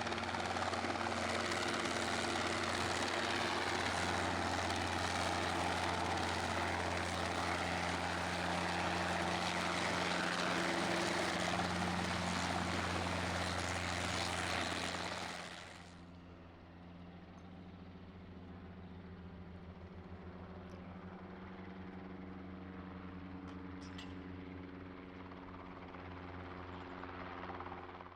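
Helicopter engine and rotor running steadily. About halfway through the sound drops abruptly to a quieter, duller running that continues to the end.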